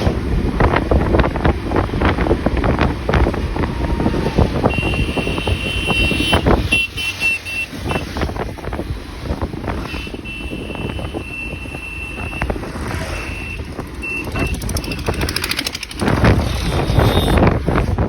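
Wind and road noise buffeting the microphone of a moving motorcycle. A high steady tone sounds on and off from about five seconds in, and the rushing eases in the middle before growing loud again about sixteen seconds in.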